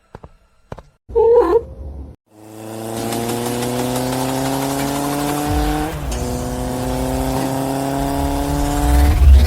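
An engine accelerating, its pitch rising steadily, dropping once about six seconds in as if shifting gear, then rising again, with a deepening rumble near the end. It is preceded by a short, loud wavering tone about a second in.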